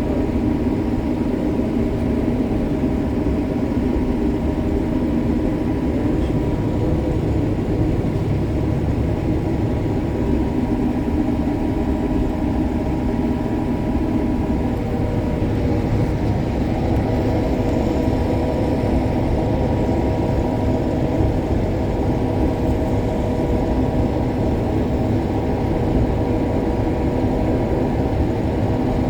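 Combine harvester running steadily while harvesting soybeans: a constant engine and machinery drone with a few steady humming tones.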